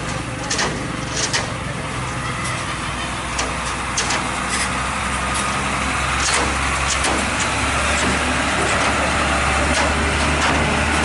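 Truck engine running steadily, its low hum growing gradually louder through the second half, with scattered short clicks and knocks.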